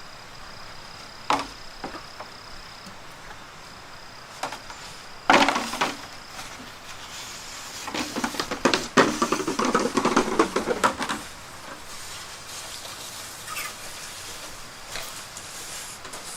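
Irregular knocks and clattering, with a dense run of clattering and scraping from about 8 to 11 seconds in. A faint steady high tone sounds underneath in the first few seconds.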